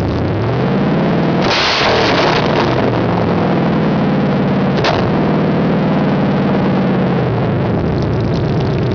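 1999 Dodge Dakota R/T's 5.9-litre small-block V8 running through open Hooker headers, revved up from idle, held at raised revs for several seconds, then let fall back to idle near the end. A loud rasp comes as it climbs, and a single sharp crack about five seconds in.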